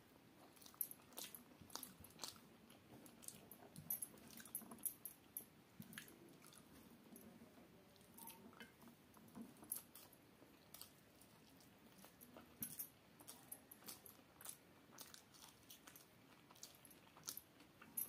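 Quiet chewing of rice and fried vegetables eaten by hand, with many small sharp clicks scattered throughout.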